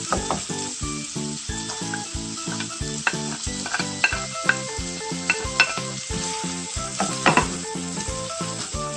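Food sizzling in a hot frying pan while it is stirred, with a few sharp clicks and scrapes of a utensil against the pan in the middle and near the end.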